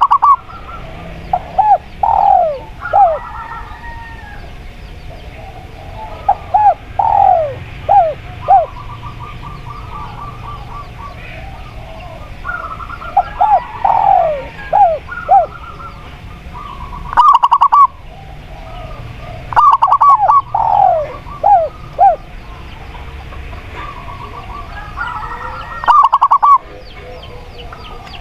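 Spotted dove and zebra dove calling over a bed of background bird sound: repeated falling coos, broken up by loud bursts of rapid stuttering notes.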